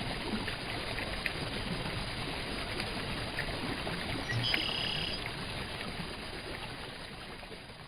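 River water flowing, a steady rushing babble, fading out near the end. A brief faint whistle-like tone sounds about halfway through.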